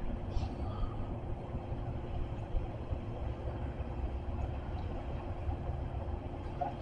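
CSX freight train rolling past, a steady low rumble with a faint steady hum and no sharp sounds.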